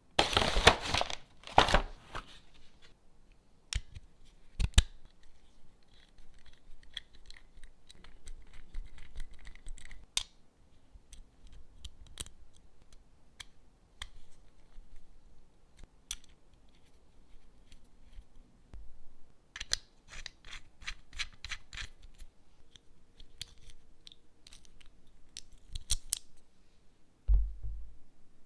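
Packaging being cut and torn open: a loud rasping tear in the first two seconds, then scattered sharp clicks and scrapes of handling. A quick run of clicks comes about two-thirds of the way through, and a dull thump comes near the end.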